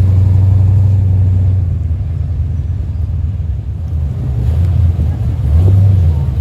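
A car engine running with a low, steady rumble, loudest at first, easing off, then swelling again shortly before the end.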